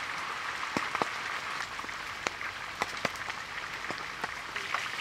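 Pieces of stingray frying in oil in a large pan: a steady sizzle with scattered sharp pops and crackles.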